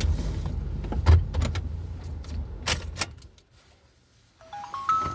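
A car engine running with sharp clicks and rattles over it, then switched off about three seconds in. Near the end comes a short chime of four quickly rising notes.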